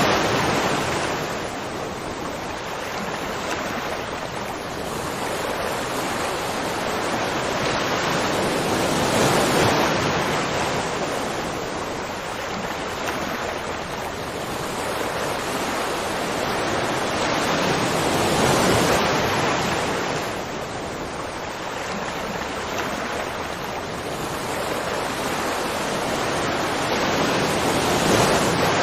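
Continuous rushing water noise, swelling and easing slowly in level about every nine seconds.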